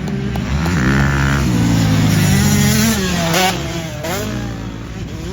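Motocross dirt bike engine revving: it climbs about a second in, holds, drops back near three seconds, then gives another short rev and settles.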